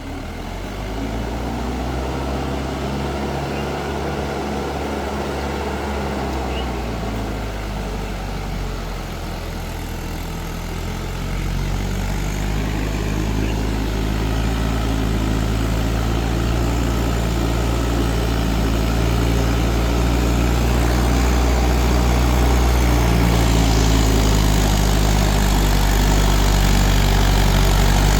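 Mahindra 4WD tractor's diesel engine running steadily, its note shifting and growing louder about eleven seconds in, then rising gradually toward the end.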